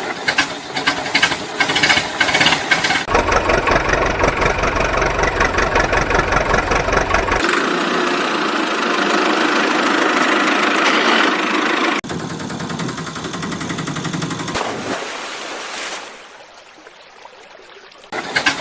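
Engine sounds of running vehicles, changing abruptly every few seconds, with a quieter stretch near the end.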